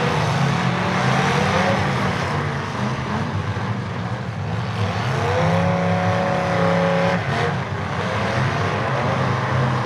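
Several demolition derby cars' engines running together in a steady drone, with one engine revving higher for about two seconds midway through.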